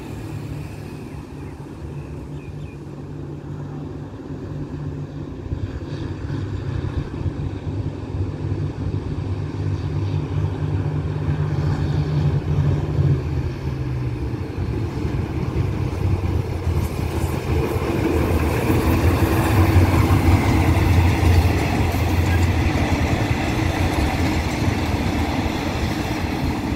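Diesel locomotive with passenger coaches approaching and passing: a steady low engine drone that grows louder. In the second half it is joined by a building rumble and rattle of wheels on the rails.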